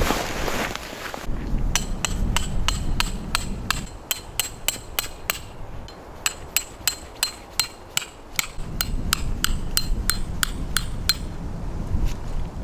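A hammer driving metal tent pegs in quick runs of about three strikes a second, each strike with a short metallic ring. Wind rumbles on the microphone underneath.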